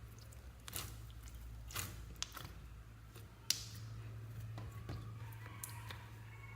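Slime being squished and worked by hand, giving several short sticky clicks and pops, the sharpest about three and a half seconds in, over a low steady hum.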